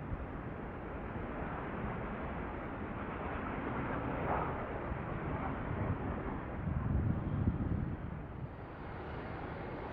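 Jet airliner engines: a steady rushing noise that builds, is loudest with a low rumble about seven seconds in, then eases.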